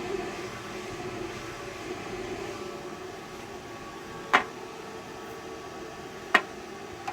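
Cooling fans of a DWT MMA/TIG inverter welding machine running, a steady rush of air with a faint hum. Two sharp clicks come about two seconds apart in the second half.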